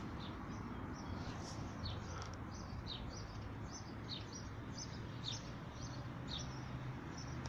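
Small birds chirping: short high notes, each sweeping down, repeated roughly once a second over steady outdoor background noise with a low hum.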